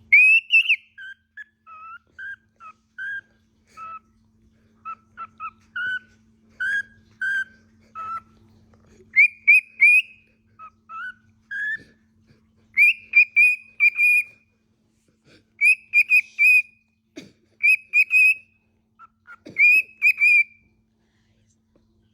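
Pet parrot whistling a string of short, clear notes. The first half has varied notes, some sliding upward. Later come quick runs of three to five repeated higher notes with short pauses between the runs.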